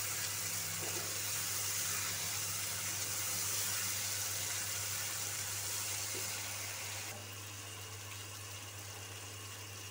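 Onion-tomato masala sizzling in hot oil in a frying pan, a steady hiss that drops off about seven seconds in, over a steady low hum.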